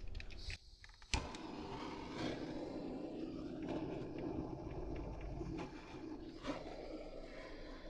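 Fire being lit in a wood-burning stove's firebox: a sharp click about a second in, then a steady rushing of flame as the newspaper and kindling catch.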